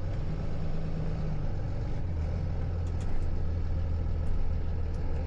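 Tow truck engine running at low speed while the truck maneuvers, a steady drone that settles into a lower, stronger hum about two seconds in.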